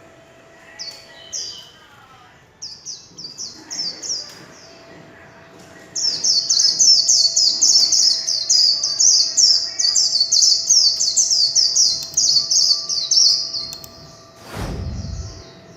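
White-eye singing its high-pitched 'líu' song: a few short phrases, then a loud run of rapidly repeated notes lasting about seven seconds from about six seconds in. A dull thump follows near the end.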